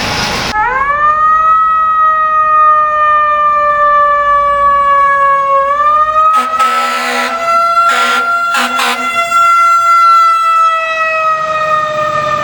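Fire truck siren: a single whining wail that sweeps up quickly, holds while falling slowly, winds up again and then begins to coast down. Partway through, it is cut into by two groups of short, loud horn blasts.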